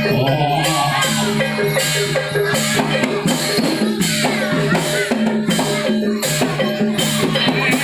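Live Javanese barongan accompaniment music: a gamelan-style ensemble of drums and tuned percussion playing a steady, driving rhythm, with a wavering melody line over the low sustained notes.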